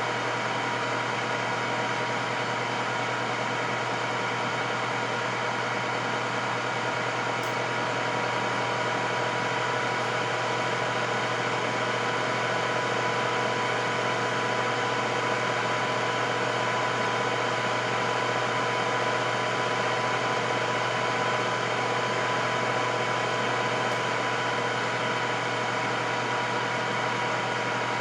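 Electric air fryer running: a steady fan whir and hum with a constant high tone, unchanging throughout.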